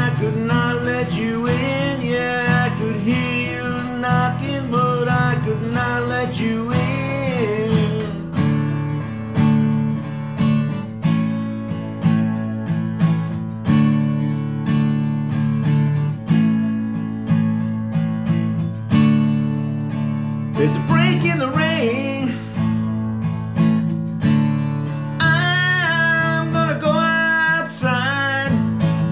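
Instrumental passage of a song on strummed acoustic guitar, with a steady strumming beat. A melody line wavers in pitch over it for the first several seconds and again near the end.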